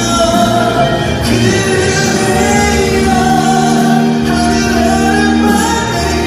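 Male ballad singer singing live over a backing track, with one note held for about three seconds in the middle.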